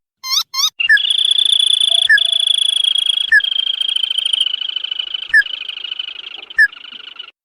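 Lure-call recording of a tututan (sintar padi) rail calling: two short rising notes, then a long rapid high trill of about six seconds that slowly fades, with a short sharp note every second or two.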